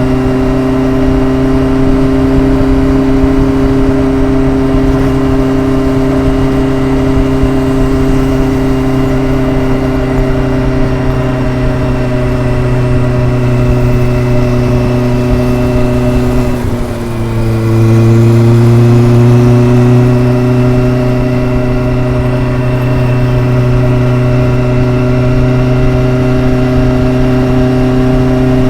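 Exhaust of a Kawasaki ZRX inline-four motorcycle under way, a steady engine note. About seventeen seconds in the note dips briefly, then settles at a lower pitch and louder.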